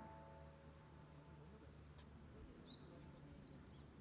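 Near silence, broken by a small bird's quick run of high chirps about three seconds in.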